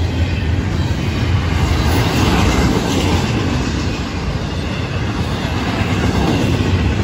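Intermodal freight train's double-stack container cars and trailer cars rolling past: steady noise of steel wheels on rail, strongest in the low range.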